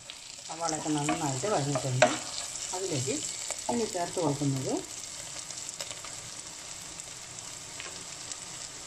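Sliced onions and green chillies frying in oil, sizzling as a spatula stirs them through the pan, with a sharp knock of the spatula against the pan about two seconds in. A voice is heard over the first half.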